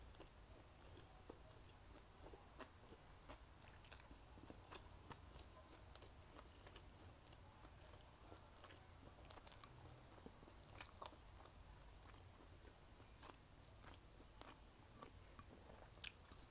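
Faint close-miked chewing with the mouth closed: soft, irregular clicks and smacks of food being chewed, a few of them sharper.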